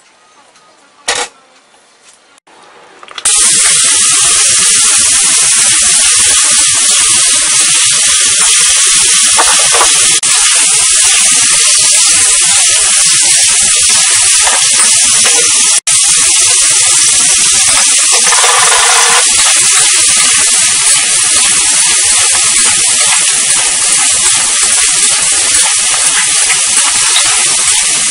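Chicken wings frying in hot oil in a wok: a loud, steady sizzle that starts suddenly about three seconds in and keeps on.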